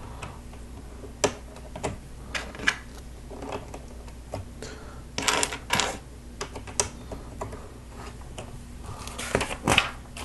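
Plastic Lego bricks clicking and clattering as pieces are handled and pressed together: scattered sharp clicks, with short clusters about five seconds in and near the end.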